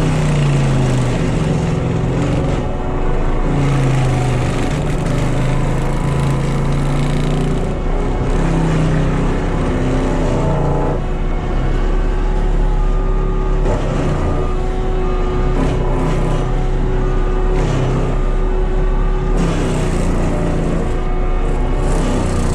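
Cat skid steer's diesel engine running hard with its brush-cutter mulching head spinning, the engine note rising and falling as it works.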